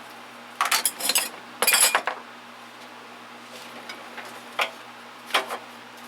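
Metal hand tools clinking and rattling against one another as they are handled and set into a toolbox drawer: two short bursts of clatter in the first two seconds, then a few single clinks.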